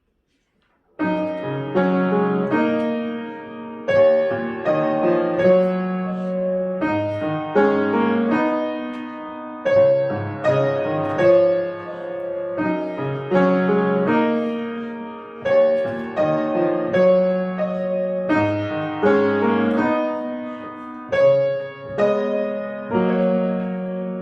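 Solo piano playing a piece, beginning about a second in, with melody notes over struck chords that ring and fade.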